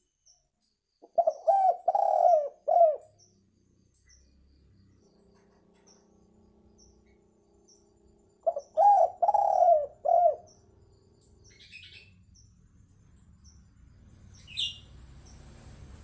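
Spotted dove (tekukur) cooing: two phrases of four notes each, the third note the longest, about seven seconds apart. A brief high chirp near the end.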